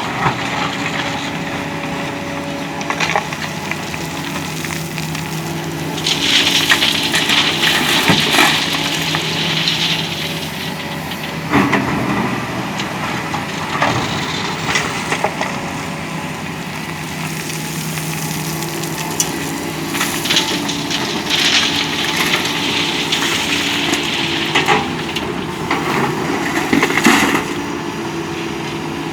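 Doosan DX225LCA excavator's diesel engine running steadily while gravel clatters and rattles. The clatter is heaviest twice, about six seconds in and again about twenty seconds in, with a few sharp knocks between.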